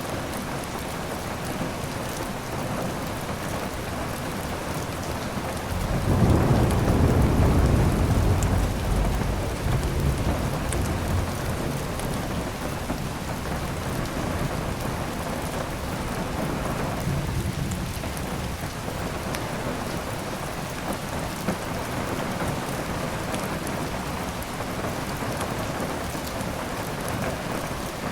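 Steady heavy rain falling, with a long roll of thunder rumbling in about six seconds in and dying away over several seconds, and a fainter rumble a little later.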